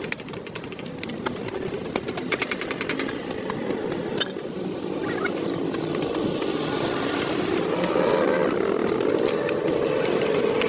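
A motor running, with rapid clicking in the first few seconds and the engine noise steadily growing louder.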